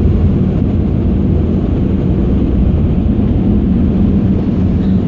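Truck wash air-dryer blowers blasting air over the vehicle, a loud, steady rush with a low hum, heard from inside the cab.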